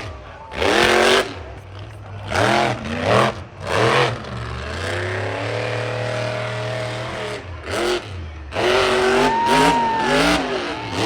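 Motocross bike engines revving in repeated throttle blips that rise and fall in pitch, with a steadier held note around the middle.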